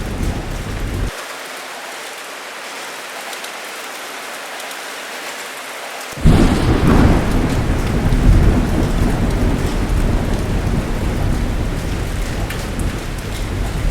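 Heavy rain falling steadily with thunder. About a second in, the low rumble cuts off abruptly, leaving only the hiss of rain. About six seconds in, a sudden loud thunderclap breaks in and rolls on as a deep rumble under the rain.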